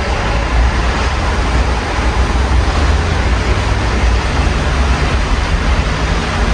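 Steady rain heard through an open window over city street traffic: an even hiss with a constant low rumble beneath it.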